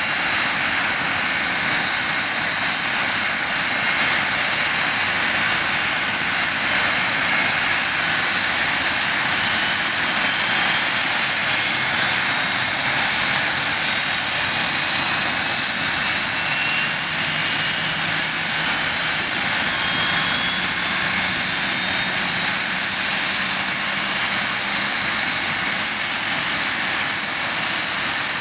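Hawker Siddeley Nimrod's Rolls-Royce Spey turbofan engines running steadily on the ground: a dense jet rush with a constant high turbine whine.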